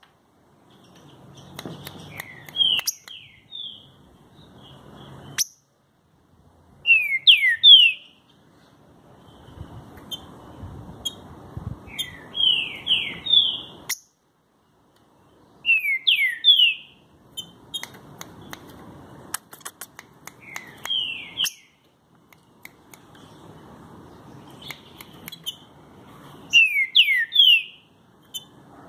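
Green-winged saltator (trinca-ferro) singing loud short phrases of a few clear, sharply falling whistled notes, a phrase every few seconds, with faint clicks in the pauses.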